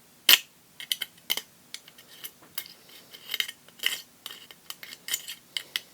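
Knife blade scraping built-up dried fletching glue off a fletching jig clamp: a run of irregular short scratches and clicks.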